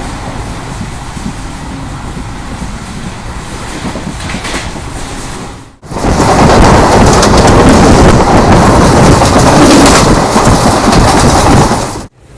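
Running noise of a passenger train behind a WDP4D diesel-electric locomotive, in two cut-together clips: a steady rumble for about six seconds, then an abrupt switch to a much louder rush of noise that cuts off suddenly near the end.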